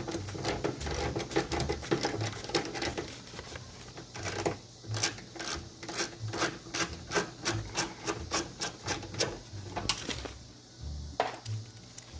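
Ratchet with a T27 Torx bit backing out the door latch bolts: some scraping and knocking of the tool against metal, then a steady run of sharp ratcheting clicks, about three a second, that stops about ten seconds in.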